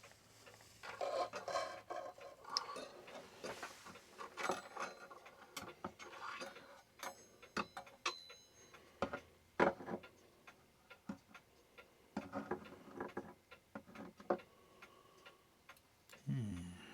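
Herschede clock chime bars being handled and fitted into the case: irregular clicks, taps and knocks of metal and wood, with brief high metallic ringing as a bar is touched.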